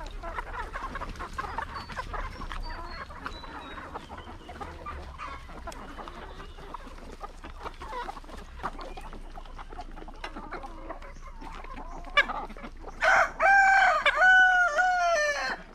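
A flock of chickens clucking. Near the end a rooster crows loudly, one multi-part crow lasting a couple of seconds that stops abruptly.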